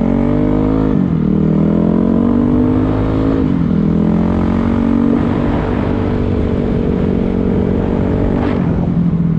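Dirt bike engine running under way, its pitch climbing with the throttle and then falling back about a second in and again at about three and a half seconds, holding fairly steady after that, and dropping once more near the end.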